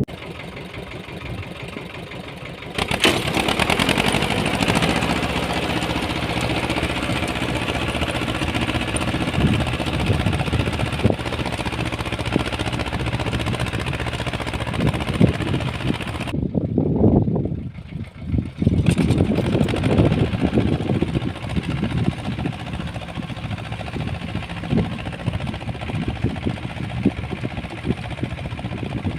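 Uralets walk-behind tractor engine running while it drives a rotary tiller through soil. The engine is quieter for the first few seconds, then comes up under load and runs steadily. About seventeen seconds in it drops briefly before picking up again.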